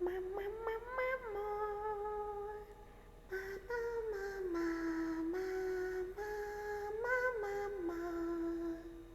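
A young woman, drinking, humming a slow tune in long held notes that slide from one pitch to the next. There are two phrases, with a short break about three seconds in.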